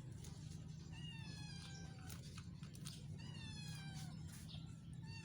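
An animal calling twice, each call about a second long and falling in pitch, about two seconds apart, over a steady low hum.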